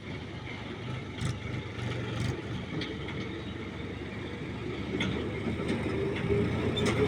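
Heavy diesel engine running steadily, with a few sharp metallic clanks over it; the running sound grows slowly louder toward the end.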